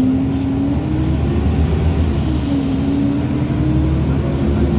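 MAN Lions City G articulated bus's differential and gearbox whining over the low rumble of the running bus. The whine rises in pitch with speed, drops about two seconds in as the gear changes, then rises again, with another dip near the end.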